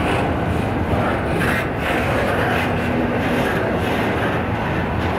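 A train passing close by with a steady, loud rumble.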